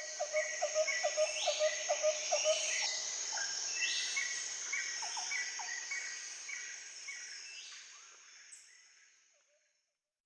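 Rainforest ambience: birds calling in quick repeated notes over a steady high insect buzz, the whole fading out near the end.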